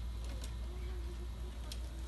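Quiet room with a steady low hum and two faint clicks, one about half a second in and one near the end.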